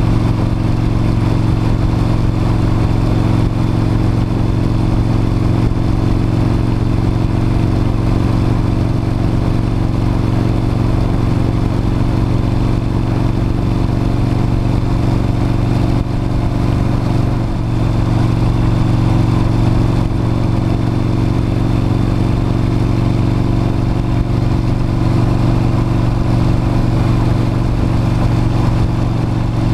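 V-twin cruiser motorcycle engine running steadily while riding at an even speed, with a brief dip in the engine note a little past halfway.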